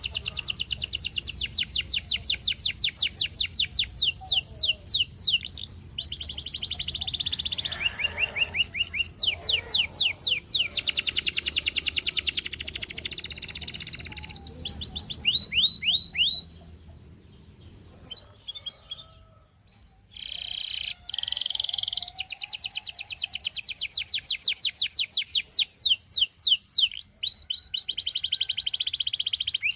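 A canary singing in long rolling trills: fast runs of repeated sharp, falling notes, changing from one trill to the next. The song breaks off for a few seconds just past the middle, then resumes.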